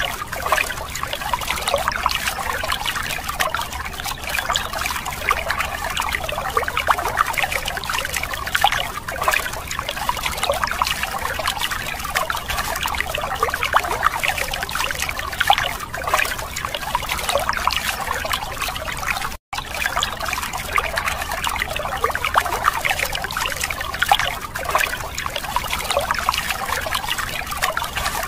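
A thin stream of water pouring and splashing steadily onto plastic toy vehicles and wet, muddy ground, with a constant spattering trickle. The sound drops out for an instant about two-thirds of the way through.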